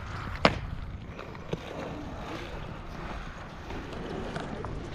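Skateboard wheels rolling over wet ground with a steady hiss, and a sharp clack of the board about half a second in, then a lighter knock a second later.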